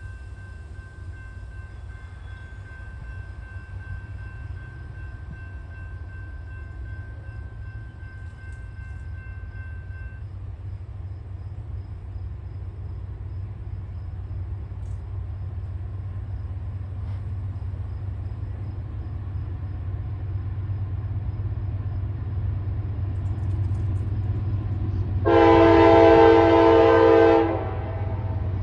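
Diesel freight train approaching, its low rumble growing steadily louder, with faint steady high tones that stop about ten seconds in. Near the end the locomotive sounds one loud horn blast of about two seconds, a chord of several notes.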